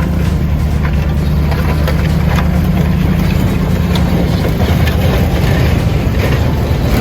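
Vehicle engine running steadily with a deep, even drone, with small scattered ticks and knocks over it.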